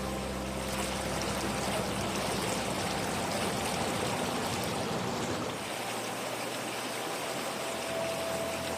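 Water rushing and splashing steadily, like a stream or flowing water channel.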